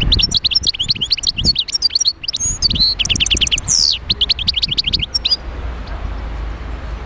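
European goldfinch singing: a fast, tinkling twitter of quick chirps and short trills that stops suddenly a little over five seconds in, over a low steady rumble.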